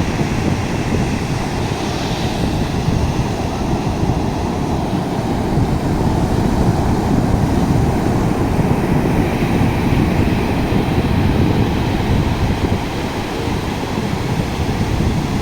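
Sea surf breaking on the shore at night, a steady, heavy rushing noise, with wind buffeting the microphone.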